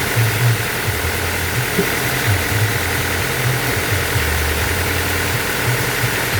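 Band sawmill machinery running: a steady low hum that steps up and down in pitch, under a faint steady whine.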